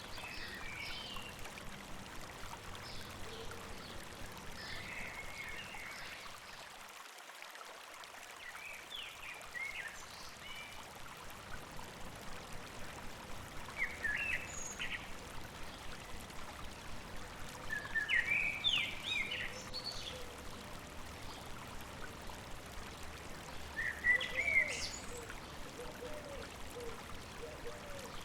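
A river babbling steadily over rocks, with songbirds calling in short bursts of chirps every few seconds, loudest about two-thirds of the way in and near the end.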